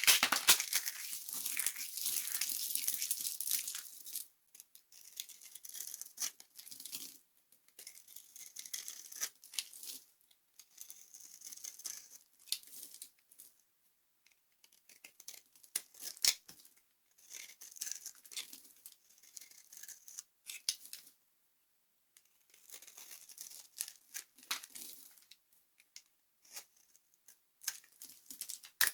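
Dry soap being crushed and crumbled, crunching and crackling. There is a long loud stretch in the first four seconds, then shorter bursts with pauses between them, and a sharp snap about sixteen seconds in.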